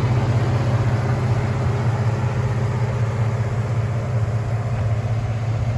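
A 4.3-litre V6 engine in a pickup idling steadily, an even low hum with no revving.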